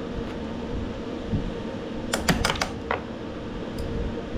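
A quick run of about five sharp clicks a little over two seconds in, with one more just before three seconds: small metal parts and hand tools clicking while the battery is being unhooked. A steady hum runs underneath.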